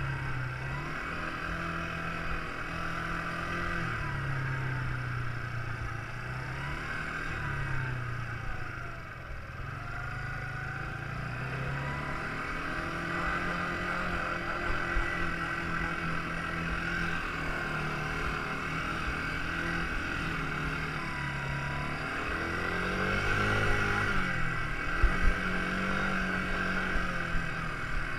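Quad bike engine running, its pitch repeatedly rising and falling as the throttle is opened and eased off, with a couple of sharp knocks near the end.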